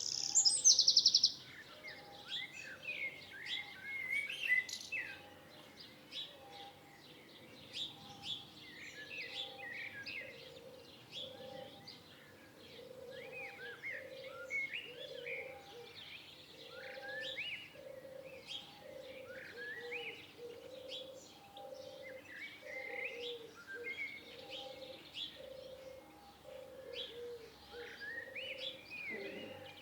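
Several birds singing together: a loud rapid trill in the first second, then many short chirps and gliding whistled notes, over a low note repeated at a steady pace.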